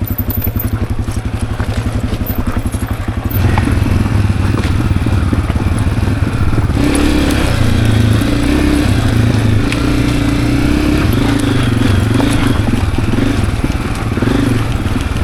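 Honda CRF250F dirt bike's single-cylinder four-stroke engine running at low revs under load as it picks through rocks, the throttle opening and easing in steps. It gets louder about three seconds in and again about halfway through.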